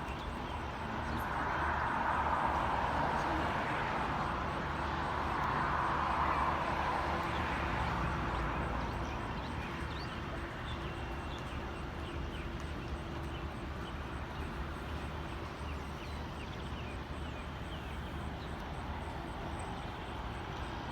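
Jet engines of a Boeing 737-800 running steadily, heard as a low rumble under a broad whooshing noise that swells twice in the first seven seconds and then settles.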